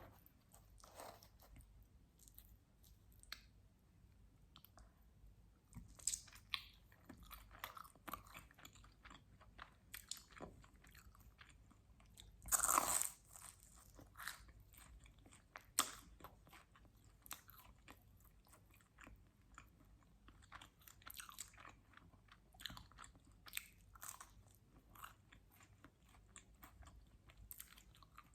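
Close-miked chewing and biting of quattro stagioni pizza: wet mouth clicks and crackles of crust. There is a louder crunching bite about halfway through.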